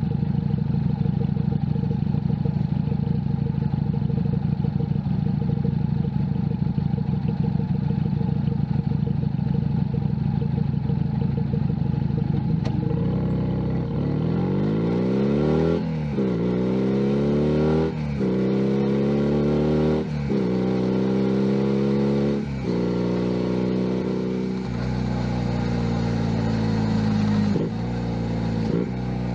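Junak M11 Cafe's 125 cc single-cylinder engine idling steadily, then pulling away about halfway through and accelerating up through the gears. Its pitch climbs, then drops at each of several upshifts.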